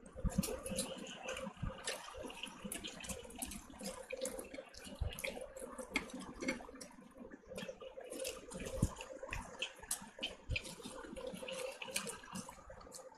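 Close-miked wet chewing and lip-smacking of chicken curry eaten by hand, a dense run of irregular small clicks and squelches, with fingers working through the curry gravy in the bowl.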